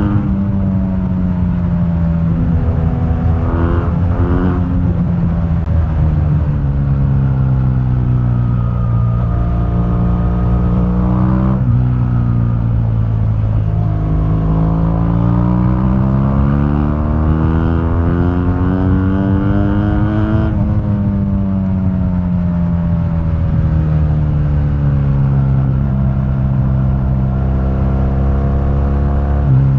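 2015 BMW R1200GS's boxer twin engine running through its stock exhaust while riding. Its pitch falls and holds, then about halfway through climbs steadily for several seconds under acceleration, drops abruptly as the throttle comes off and eases down before settling.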